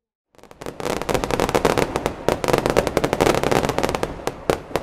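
Fireworks going off in a dense, rapid barrage of crackling bangs. It starts abruptly about a third of a second in and continues as many sharp reports in close succession.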